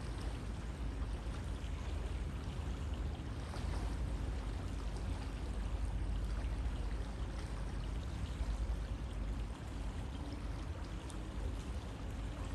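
A river flowing steadily over stones, a continuous rush of water with small splashes and gurgles.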